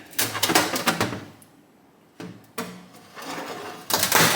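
Hands working with tools and metal engine parts during a motorcycle engine teardown: a run of short clattering and scraping noises, a quiet pause, then more clatter near the end.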